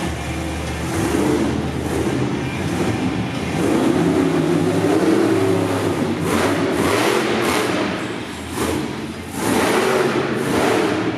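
Monster truck engine running hard and revving, its pitch wavering, with several sharp bursts of throttle in the second half.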